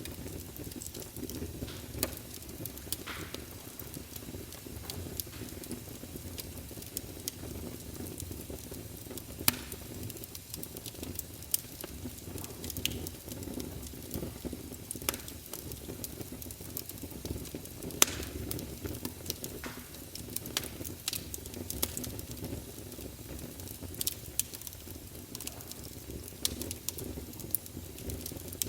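Wood fire burning in a fireplace: a steady low rumble of flames with frequent irregular crackles and pops from the logs, a few of them sharp and loud.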